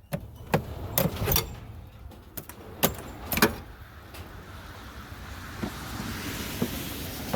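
A series of sharp clicks and knocks, about six in the first three and a half seconds, as plastic clips and trim are pried off a car's wheel well, followed by a steadier background noise that grows slightly louder.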